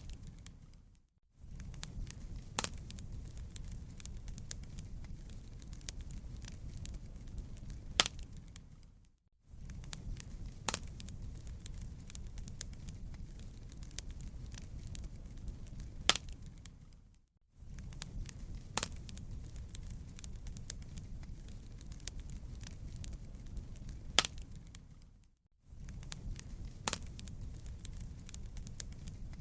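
Fireplace crackling: a steady low rumble of burning with scattered sharp pops and snaps. The sound runs in a short loop that fades out for about a second and restarts roughly every eight seconds, repeating the same pops each time.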